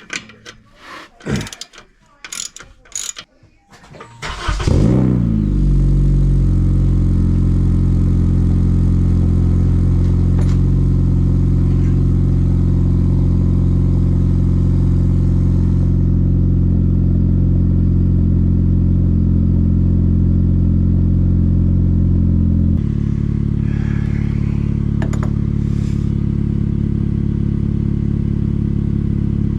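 A ratchet clicks a few times as the muffler clamp is tightened. About four seconds in, the 2012 Honda Civic's four-cylinder engine starts and settles into a steady idle through its DC Sports aftermarket muffler, with the idle dropping slightly near the end. The repaired exhaust is running sealed, with no leak, as the owner judges by feel.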